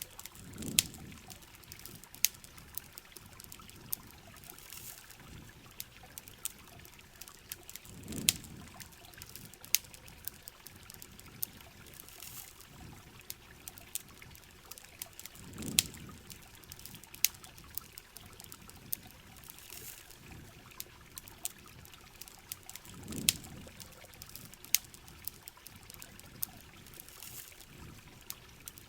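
Rain and a crackling campfire: a steady patter of rain with many sharp pops and crackles. A low swell comes back about every seven and a half seconds.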